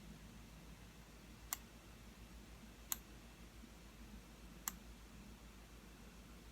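Three single clicks of a computer mouse button, spaced a second or two apart, over a faint low hum.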